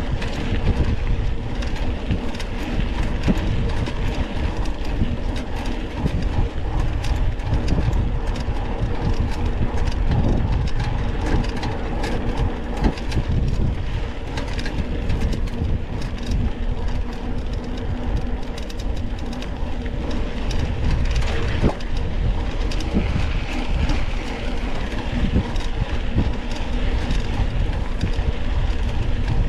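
Onboard sound of a mountain bike being ridden over a rough dirt trail: a steady heavy rumble with constant rattling and clatter from the bike and tyres.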